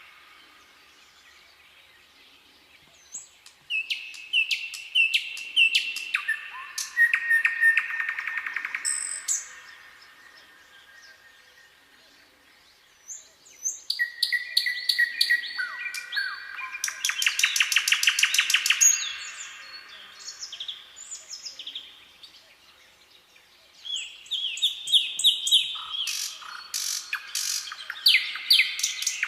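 Songbirds singing in three song phrases: runs of high chirps that step down in pitch into fast trills, with quiet pauses between the phrases.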